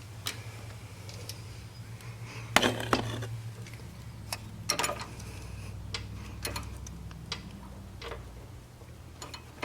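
Screwdriver clicking and scraping against metal while prying a small leaking parking-brake seal out of a Hydro Gear transmission housing. The clicks are irregular, the loudest about two and a half seconds in, over a steady low hum.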